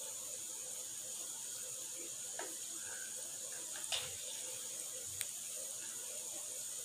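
Chicken pieces frying in hot ghee in a pan, a steady sizzle. A metal spatula clicks lightly against the pan three times, loudest about four seconds in.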